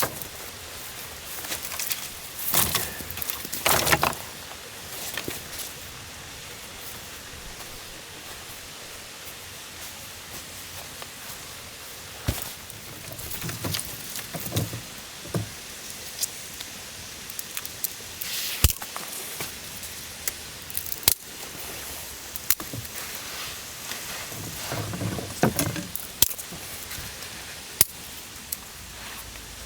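Irregular handling noises: rustling, clattering and sharp clicks and knocks, like camping gear being unpacked and set up, over a steady hiss.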